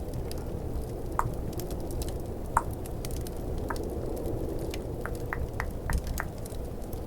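Close-miked tongue clicks: about eight short, hollow pops at irregular intervals, the last few in a quick run. Under them a steady snowstorm wind and crackling fireplace ambience track.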